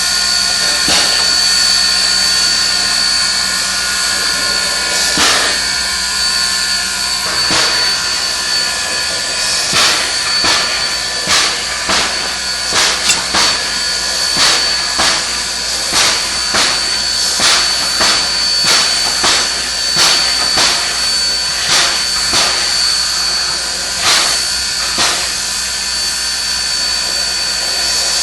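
Steam locomotive hissing steam steadily with a high, whistling edge. Through the middle stretch a regular beat of sharp strokes, about one and a half a second, runs over the hiss.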